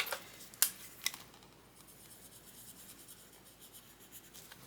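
A pen or marker scratching on paper, coloring in a savings tracker, after two sharp clicks in the first second.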